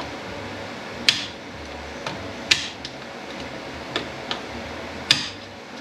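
Metal transmission parts clinking and knocking as a clutch drum from a 10R80 automatic transmission is handled and taken apart: about seven sharp separate clanks, the loudest about a second in, halfway through and near the end.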